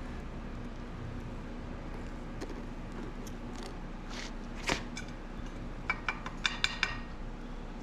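Devil Forge melting furnace running with a steady burner hum, broken by a few sharp taps and then a quick run of half a dozen clicks near the end.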